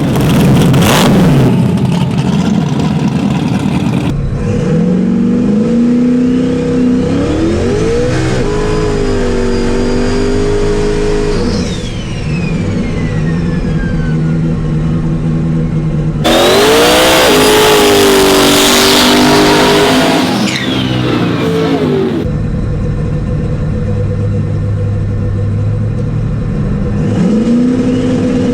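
Drag-racing trucks' engines revving and accelerating hard, one after another, with rising engine pitch several times. The loudest pass comes about two-thirds of the way through, with a long falling whine.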